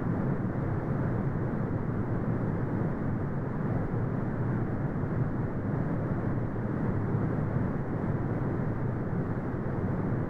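Steady brown noise: a deep, even rumbling hiss with no tones or changes, its energy low and cut off above the midrange.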